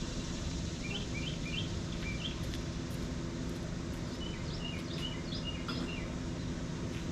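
A small bird chirping in two quick runs of short notes, one about a second in and another about four seconds in, over a steady background hum.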